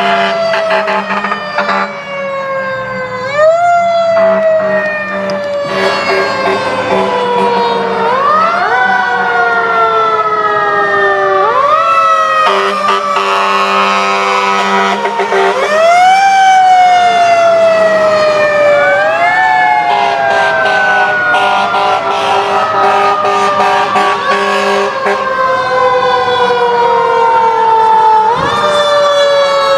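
Fire truck sirens wailing, several overlapping, each rising quickly in pitch and then falling slowly before rising again. A steady low blaring tone sounds underneath, strongest around the middle.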